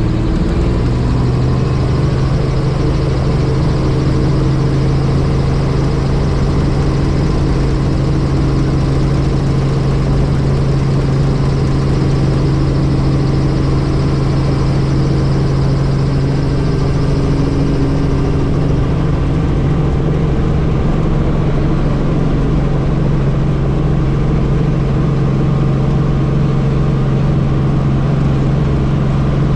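Helicopter running steadily: a constant loud drone with a strong low hum and several steady tones over a rush of wind and engine noise.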